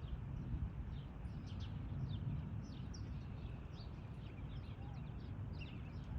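Small songbirds chirping, with many short high chirps that sweep downward, scattered irregularly, over a steady low rumble of outdoor noise.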